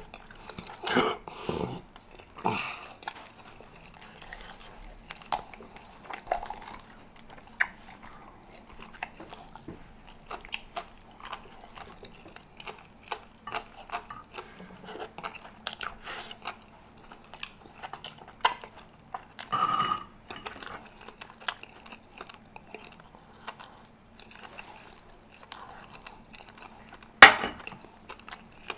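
Close-up chewing and mouth sounds of a person eating rotisserie chicken: wet smacks and many small clicks, a few louder bursts early on and one sharp click near the end.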